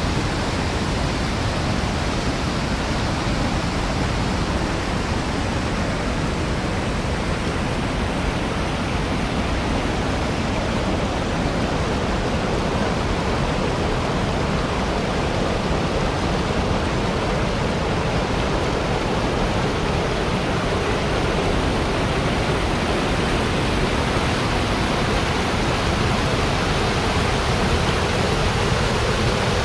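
Kivach waterfall, a cascade on the Suna River, with water rushing over the rocks as a steady, unbroken noise.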